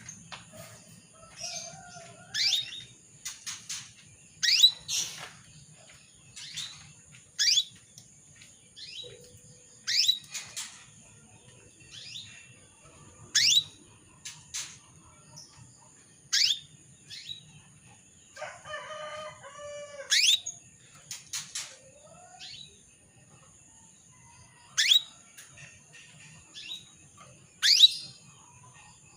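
Female canary calling: short, sharply rising chirps repeated every two to three seconds, with a longer, lower call about two-thirds of the way through. These are the calls of a hen in breeding condition calling to a male.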